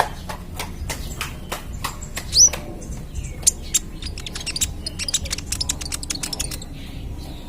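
Young kolibri ninja sunbird singing rapid sharp chips and ticks, with one loud rising whistle about two and a half seconds in and a dense fast run of ticks in the second half.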